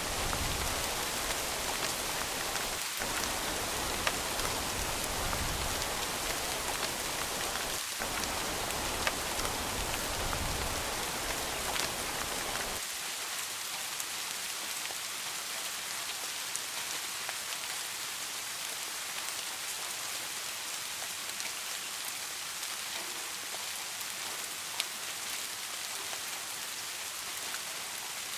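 Steady rain falling, a dense hiss dotted with small sharp drop ticks. About thirteen seconds in, the deep low rumble drops away suddenly, leaving a thinner, hissier rain.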